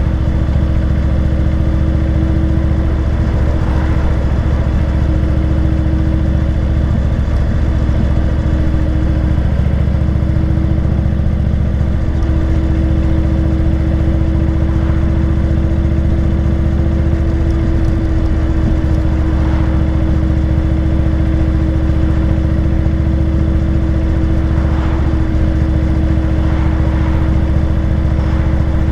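Motorcycle engine running steadily at an even cruising speed, with a constant drone and no clear revving up or down.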